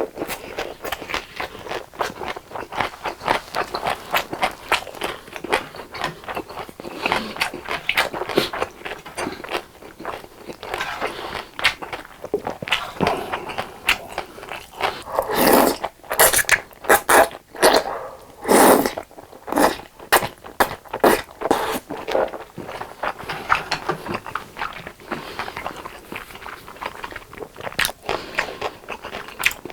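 A person eating close to the microphone: chewing and biting food in a steady run of small clicks and smacks. A stretch of louder ones comes about halfway through.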